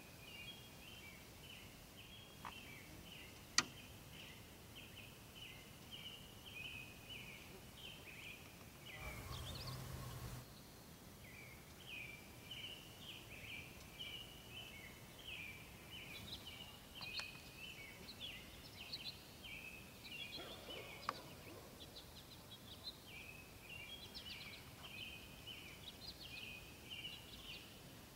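Faint birdsong: a songbird singing long runs of rapid, high chirping notes, broken by short pauses. A single sharp tick sounds about three and a half seconds in, and a brief low rumble of noise comes near the middle.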